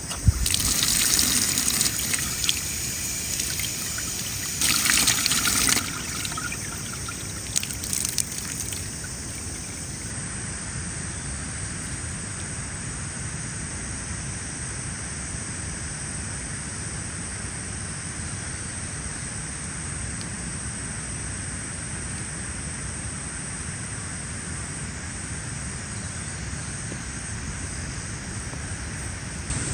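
Water poured or trickled in three short runs over the first nine seconds or so, followed by a steady, even hiss.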